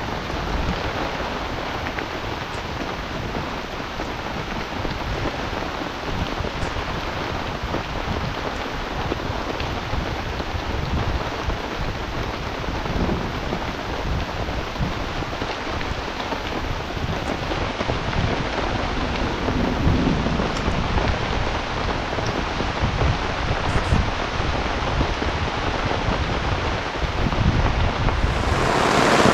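Heavy rainstorm: a steady downpour of rain with low, irregular rumbles of thunder. The rain grows louder near the end.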